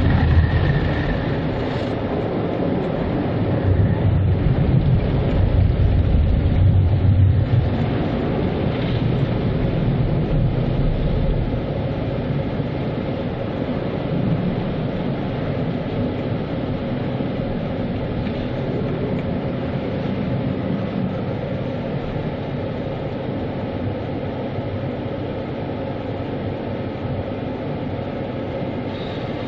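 Automatic car wash equipment running over a car: a steady rushing and rumbling, heaviest about four to seven seconds in, then settling to an even wash.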